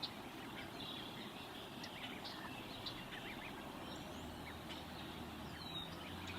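Faint outdoor ambience from a nest camera's microphone, with many short, scattered bird chirps and a brief falling whistle near the end.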